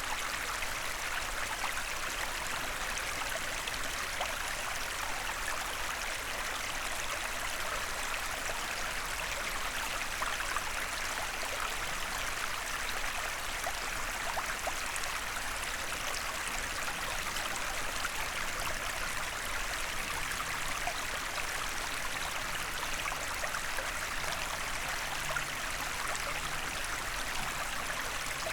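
Small forest stream running steadily, a continuous rush of water.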